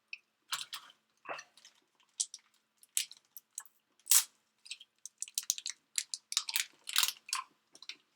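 Close-up chewing and crunching of food: a run of short, irregular crunches, loudest about four seconds in and again near seven seconds.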